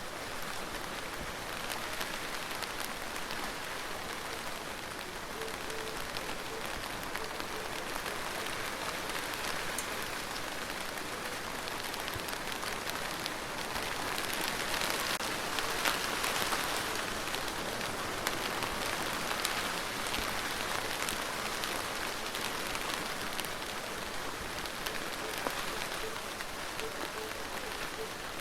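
Steady rain falling on a hard surface, with individual drops ticking through it. The rain swells heavier about halfway through, then eases back.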